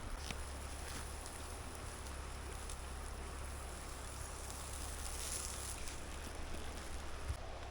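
Steady outdoor ambience by a river: an even rushing hiss over a low rumble, with a few faint clicks.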